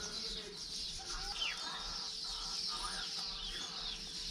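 Chickens clucking against a dense, continuous chatter of small birds chirping, with a faint steady hum underneath.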